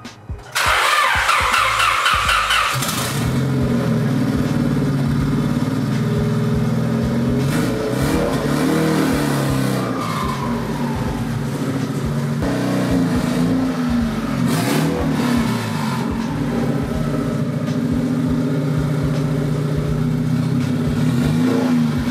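Turbocharged Honda D16 four-cylinder in a 1999 Civic EX being started, the starter cranking for about three seconds before the engine catches, then running at a steady idle with a brief rise and fall in revs as the car is driven slowly into the garage.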